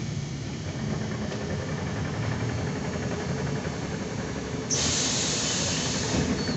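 Steady low hum and rumble of a ZiU-9 trolleybus heard from inside, then, about two thirds of the way in, a sudden loud hiss of compressed air from the trolleybus's pneumatic system that keeps going.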